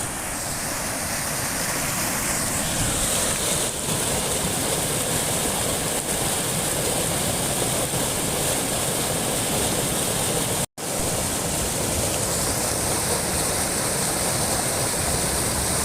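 Rushing floodwater of the swollen Porter Brook, a steady loud roar of fast-flowing water that builds over the first couple of seconds. The sound cuts out for an instant about two-thirds of the way through.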